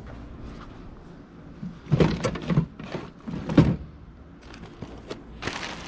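Things being shifted about while rummaging through a dumpster: knocks and scrapes, loudest about two seconds in and again about three and a half seconds in, with another near the end.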